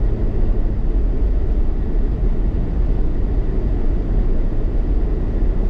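Steady low rumble of a car's tyres and engine heard from inside the moving car, with no change in pitch or level.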